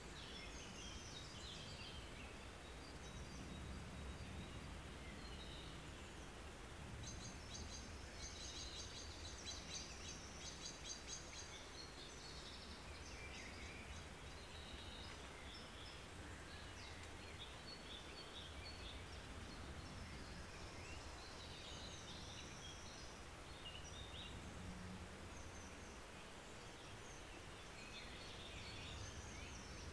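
Faint songbird chirps and calls over a steady low rumble of outdoor background noise, with a quick run of high chirps about eight to twelve seconds in.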